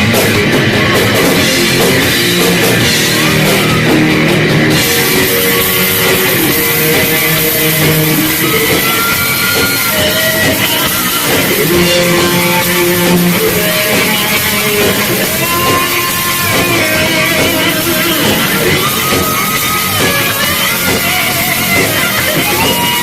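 Live metal band playing loud: electric guitars over a drum kit.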